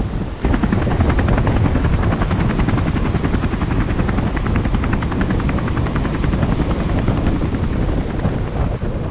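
Rapid, even chopping pulses over a heavy wind rumble on the microphone, starting suddenly just under half a second in.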